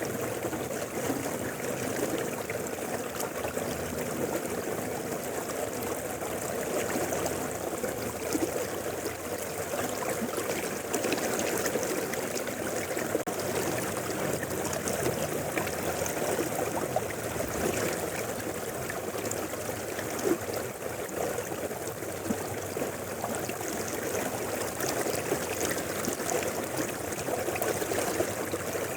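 Mountain river flowing steadily, an even, unbroken rush of water.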